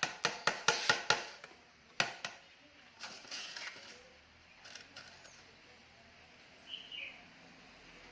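A rapid series of sharp clicks, about six a second, stopping about a second in, then two more single clicks about two seconds in. A short high chirp near the end.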